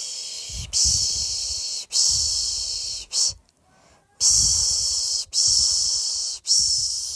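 Rhythmic 'shhh' shushing used to lull a baby to sleep (Turkish 'piş piş'). It comes as long hisses of about a second each, three in a row followed by a short one, then a brief pause before the pattern starts again.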